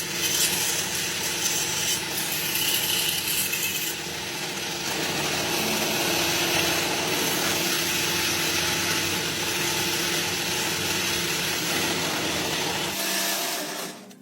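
Steady rasping, scraping mechanical noise, like a small tool or motor running, that stops abruptly near the end.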